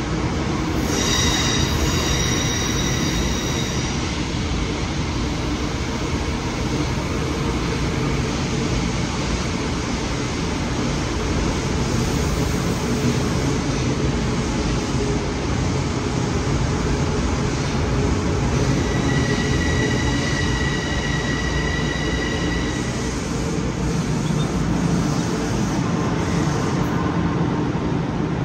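Long Island Rail Road electric multiple-unit train running through the station with a steady loud rumble. Its wheels squeal in high tones about a second in, and again for about four seconds past the middle.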